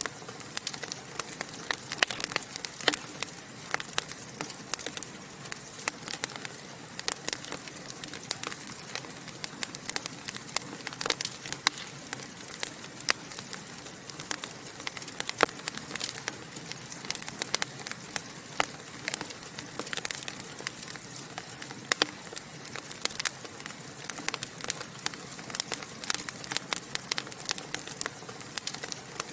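Wood fire burning in a fireplace, crackling and popping with frequent irregular sharp snaps over a steady soft hiss.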